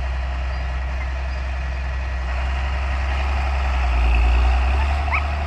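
John Deere 4430 tractor's six-cylinder turbo diesel running steadily under way, a low drone that grows louder about four seconds in and eases off again.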